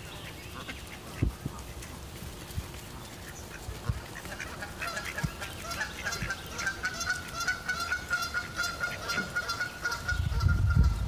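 Birds calling over and over, several calls a second, building from about four seconds in. A few low knocks come in the first few seconds, and a low rumble starts near the end.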